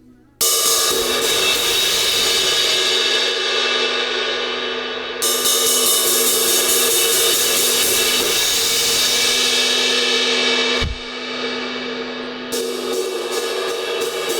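Vintage Zildjian 18-inch A crash cymbal, its edge crack freshly repaired, struck and left ringing in a long shimmering wash with steady ringing tones. It is struck again about five seconds in. A low thump comes near eleven seconds, after which the ring is duller, and a run of quick hits follows near the end.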